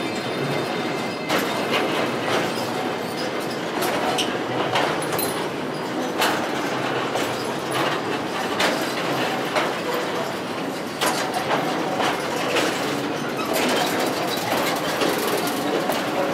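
Narrow-gauge sugar railway train running on track, with a steady rolling noise and irregular clacks and knocks from the wheels and cars over the rails.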